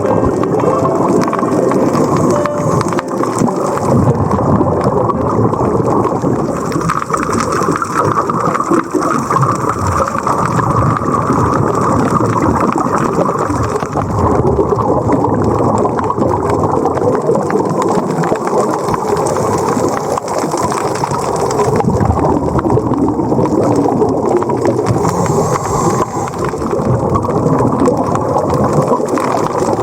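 Steady, dense bubbling and crackling water noise recorded underwater, with no break.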